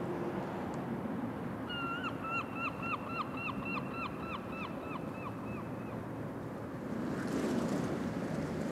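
A bird calling in a quick series of about fifteen short down-slurred notes, roughly four a second, over a steady outdoor rush of ambience that swells near the end.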